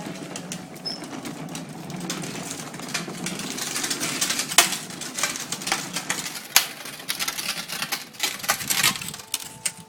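A toy tractor's small electric drive motor whirring as it runs, with irregular plastic clicks and rattles throughout.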